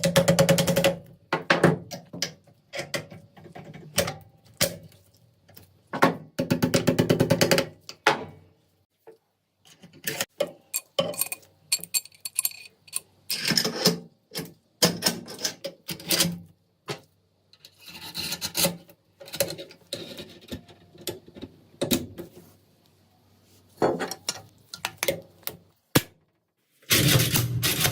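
Hand work on rifle parts: bursts of rapid clicking and rattling, a second or two each, with short pauses between.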